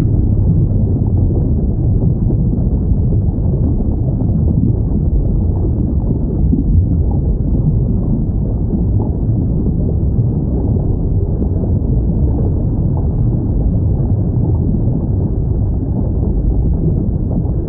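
Steady deep rumbling noise of an underwater ocean ambience, the bed of a whale-sound recording, with no whale call clearly standing out.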